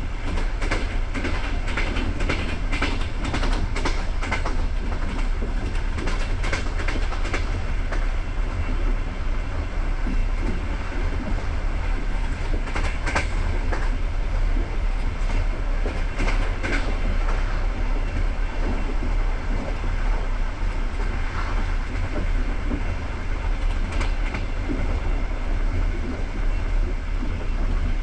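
Passenger train carriage rolling along the track: a steady low rumble with the wheels clicking over rail joints, a dense run of clicks in the first several seconds and scattered single ones later.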